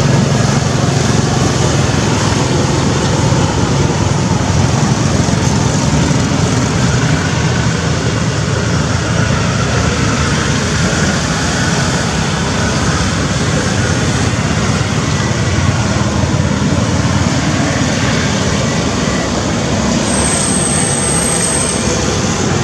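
Steady rumble and road noise of a moving vehicle, unchanging throughout.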